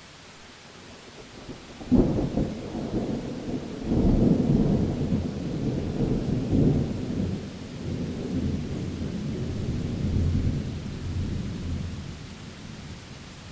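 Thunder over steady rain: a sharp crack about two seconds in, then a long rolling rumble that swells again about two seconds later and slowly dies away.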